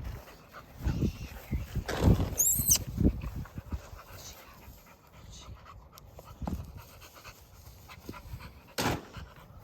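Dog panting, with several dull knocks in the first few seconds and a short noisy burst near the end.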